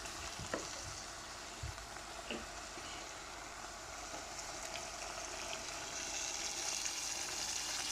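Brussels sprouts sizzling in olive oil in a pan, a steady hiss with a few light clicks in the first few seconds.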